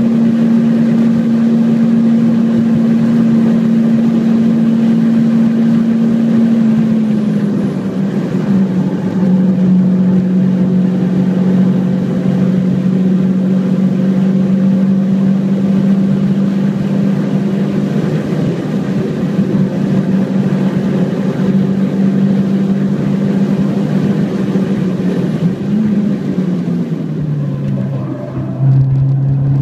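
Renault Clio 172 Cup's 2.0-litre four-cylinder engine running hard at high revs, heard from inside the cabin over road and wind noise. The engine note eases down a little several seconds in, holds steady, then drops lower near the end as the car slows for a corner.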